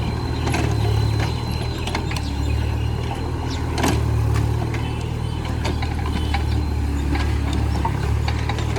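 Diesel engine of a mini JCB excavator running steadily, with scattered sharp metallic clanks and knocks from the working machine.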